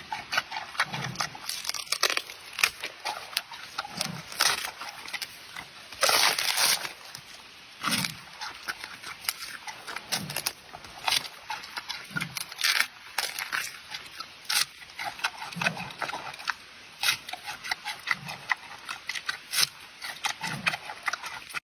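Giant panda chewing bamboo: a dense run of sharp crunching and cracking as the stalks are bitten and split, with a short low sound about every two seconds.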